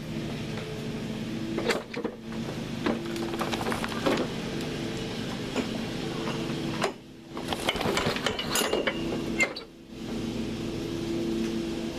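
Lawn-Boy lawn mower engine running steadily just after a cold start, with scattered clicks and knocks. Twice it falls quiet for about half a second.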